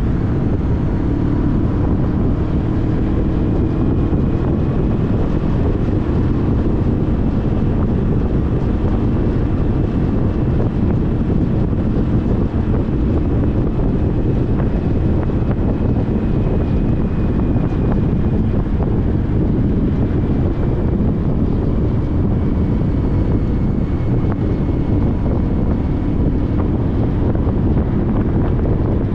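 Wind rushing over the microphone at riding speed on a 2014 Honda CTX1300 motorcycle, with the steady hum of its V4 engine under it, drifting slightly in pitch.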